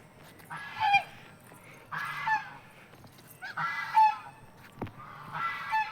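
Geese honking: four nasal calls about a second and a half apart, each dropping in pitch at the end.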